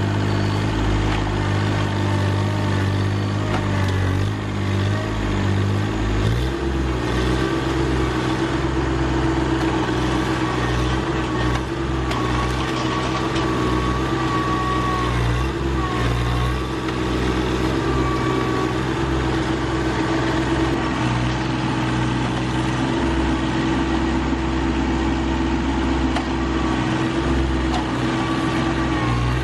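Rural King RK25 sub-compact tractor's engine running steadily while its front loader grapple digs at the roots of a large stump. The engine note shifts higher about six seconds in and holds there, with a steady whine over it.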